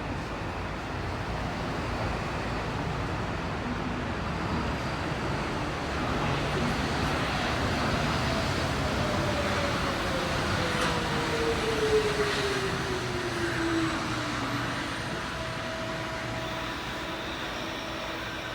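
Tokyo Monorail 1000-series car heard from inside, running steadily. From about a third of the way in, a whine falls in pitch over several seconds and fades out, the motor and gear pitch dropping as the train slows.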